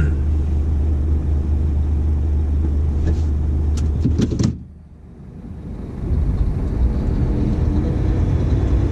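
Dump truck's diesel engine droning steadily, heard from inside the cab. A few sharp clicks come about four seconds in, then the sound drops away abruptly for about a second and a half before the engine drone comes back.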